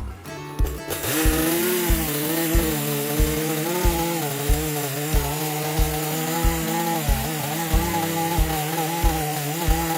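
A chainsaw cutting wood, its engine pitch wavering up and down under load, over background music with a steady beat.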